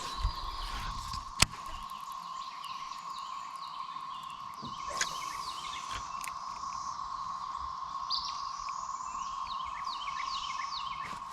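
Birds chirping in many short, quick, downward-sliding notes over a steady, even hum, with a sharp click about a second and a half in.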